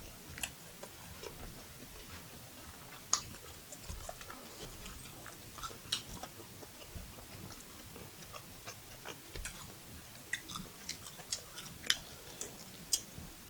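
Close-up eating sounds: a person chewing mouthfuls of spicy beef fried rice, with scattered short wet clicks and smacks, a few sharper ones standing out.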